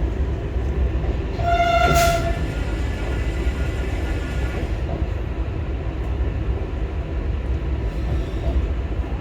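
Vande Bharat Express trainset running, a steady low rumble heard from inside the coach. About two seconds in, a horn sounds once for about a second.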